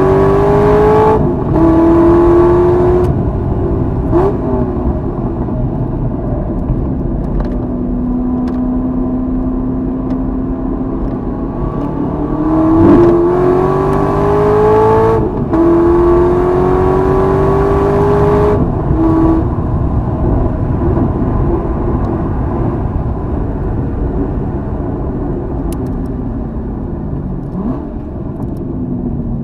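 Corvette Z06 V8 on track, pulling hard with its pitch rising through the gears: an upshift near the start and another pair of rising pulls with a gear change between them around the middle. Lower, steadier running between, and the engine easing off near the end as the car brakes.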